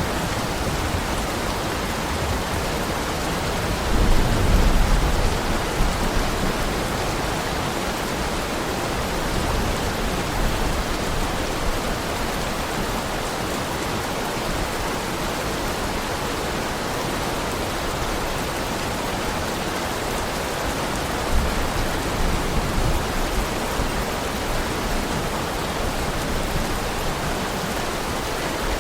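Heavy rain falling in a steady, even hiss. A low rumble swells briefly about four seconds in and again about twenty-one seconds in.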